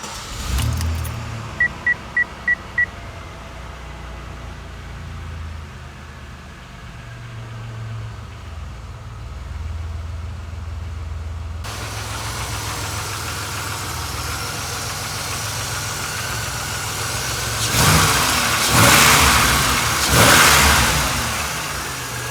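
Pontiac Grand Am engine starting about half a second in and settling into a steady idle, with five quick electronic chime beeps soon after. Near the end come a few louder surges.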